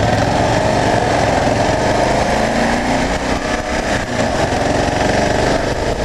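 2009 Kawasaki KLR 650's single-cylinder engine running steadily.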